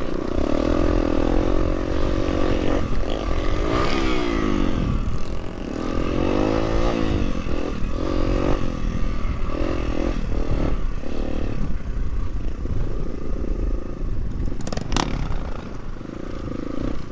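Trail motorcycle engine running and revving up and down over a low rumble, with clattering. There is one sharp knock about fifteen seconds in.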